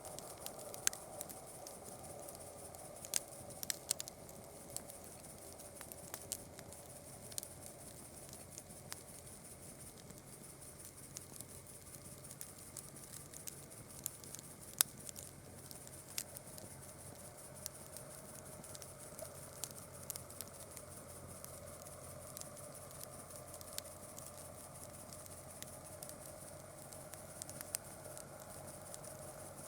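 Campfire of burning wood crackling: irregular sharp pops and snaps, the loudest about halfway through, over a soft steady hiss.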